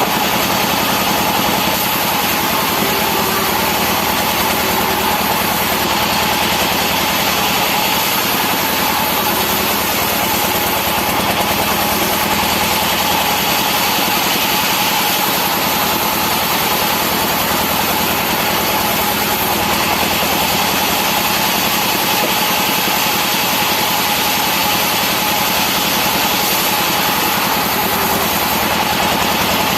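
Sawmill machinery running steadily while timber is sawn: a constant engine drone with a steady high whine over it.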